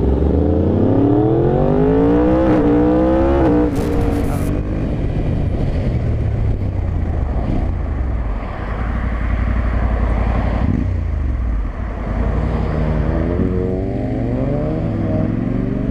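Motorcycle engine accelerating hard, its pitch climbing through the first few seconds with a brief step partway up, then wind and road rush. A little past the middle the engine note falls as it slows, and near the end it climbs again.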